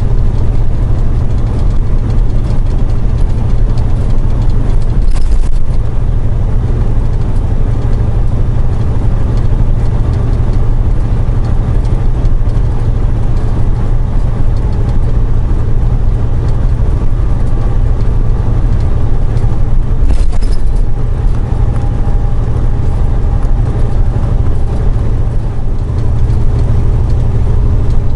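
Steady low rumble of a semi truck's engine and road noise heard inside the cab while driving at highway speed, with two brief disturbances in the sound.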